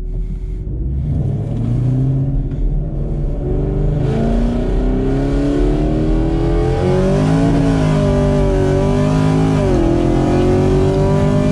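Car engine at full throttle, heard from inside the cabin during a roll race from about 30 mph. It revs up steadily, and the pitch drops back twice at the gear changes before climbing again.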